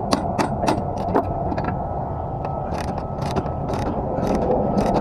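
Rapid metallic ratcheting clicks, about three a second, in two runs with a pause between, over a steady low engine rumble.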